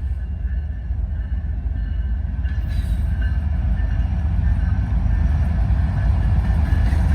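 Freight train's diesel locomotives passing close by, a heavy, steady low rumble that grows slowly louder, with brighter, hissier rail noise joining about two and a half seconds in.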